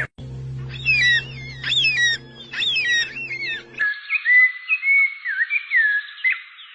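Songbird calls: a run of quick, sliding chirps, then, about four seconds in, a cut to another recording of clear whistled notes over a hiss.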